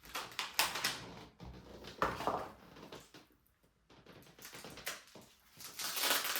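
Packaging being handled and pulled off a new bike: crinkling and rustling in three bursts, the longest near the end.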